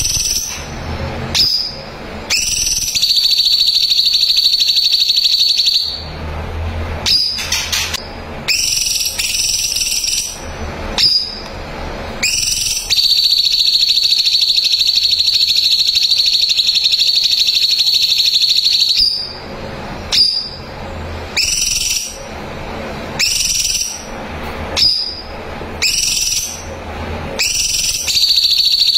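Cucak cungkok singing loudly: long, high, rapid trills held for several seconds at a time, three times, with short whistled notes between them.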